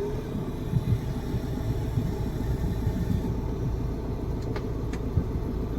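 Chevrolet Enjoy's 1.3-litre four-cylinder diesel engine idling steadily, a low even rumble, with a couple of faint ticks near the end.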